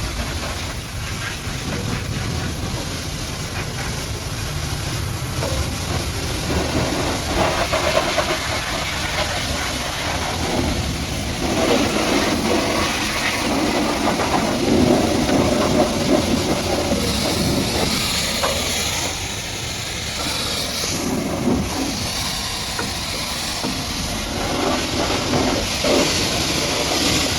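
High-pressure washer jet spraying water against a muddy truck, a steady hiss that swells and changes in tone as the spray moves over different surfaces, brightest about two-thirds of the way through.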